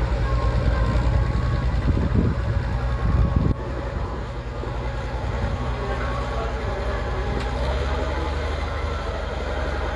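Tractor engine running, a steady low chugging with a fast regular beat. The level drops abruptly about three and a half seconds in, then the running carries on.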